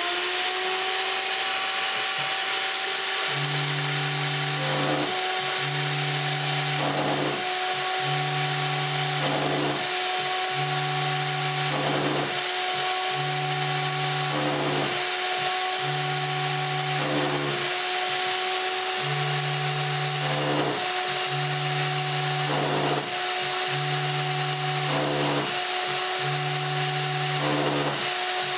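Router spindle on a homemade CNC machine running at a steady high pitch while a single-flute quarter-inch carbide endmill cuts quarter-inch aluminium plate with the mist coolant on. A lower hum comes and goes about every one and a half to two seconds as the machine works through its passes.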